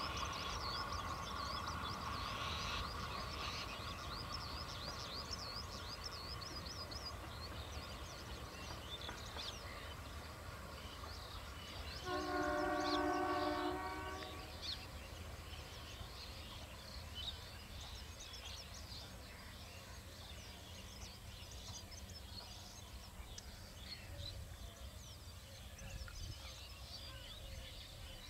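Passenger express train pulling away into the distance, the low rumble of its coaches slowly fading. About halfway through, the locomotive sounds a multi-tone horn once for about two seconds.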